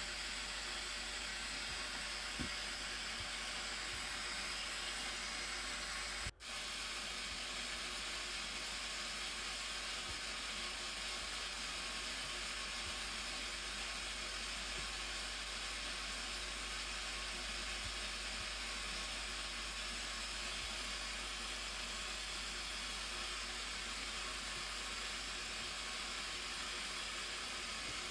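Steady rushing roar of the Blue Nile Falls, an even wash of falling water with a split-second break about six seconds in.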